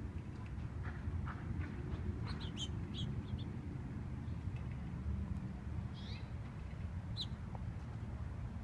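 Small aviary finches chirping: a cluster of short, high chirps about two seconds in and a few more around six to seven seconds, over a steady low rumble.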